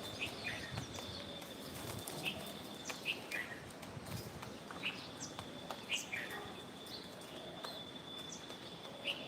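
Birds chirping: short, quick falling chirps repeated every half second or so, over a steady high-pitched tone and background noise.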